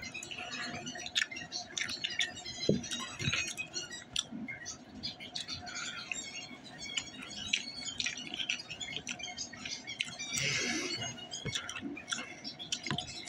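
Close-up chewing and lip-smacking on breaded chicken nuggets: a dense, irregular run of small wet clicks and crackles, with a short rush of noise about ten seconds in.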